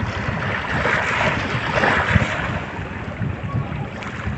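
Wind buffeting the microphone outdoors: a steady rushing hiss with irregular low thumps, swelling about a second in.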